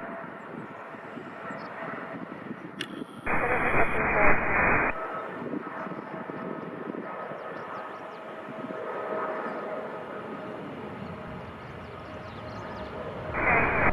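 Boeing 777-300ER's GE90 jet engines running with a steady whine over a constant rush. About three seconds in, a short burst of air traffic control radio noise breaks in for about a second and a half.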